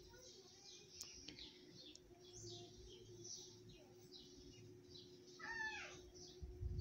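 Faint bird chirping, short high chirps repeating throughout, with one louder falling call about five and a half seconds in.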